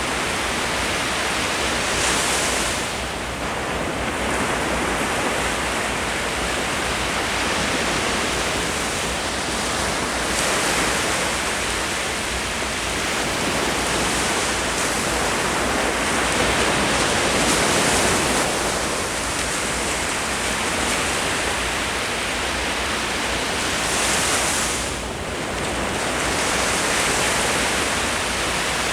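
Ocean waves breaking on the shore: a continuous rushing wash of surf that swells and eases every few seconds.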